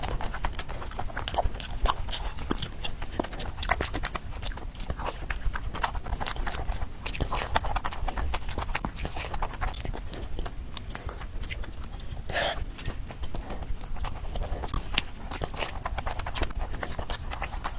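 A person chewing and crunching crispy food, with dense irregular crunches.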